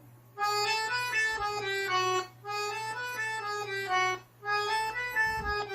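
Accordion playing a single-note melody in three short phrases, with brief pauses between them.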